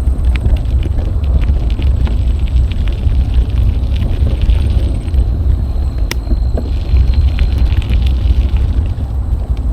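Wind buffeting an action camera's microphone during a bike ride, a steady low rumble, with scattered clicks and rattles from the moving bicycle.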